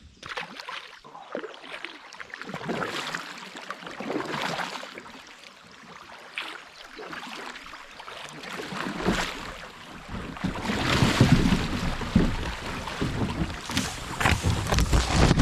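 Water splashing and rushing around a small fishing kayak moving through a shoal, with gusts of wind on the microphone that grow louder in the second half.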